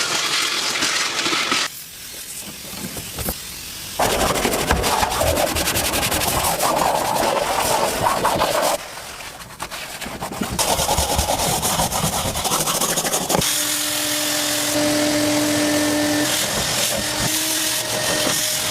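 Cleaning machinery used in detailing, heard in a series of short cuts: steady hissing noise, stopping and starting abruptly, with a steady hum joining in for the last five seconds.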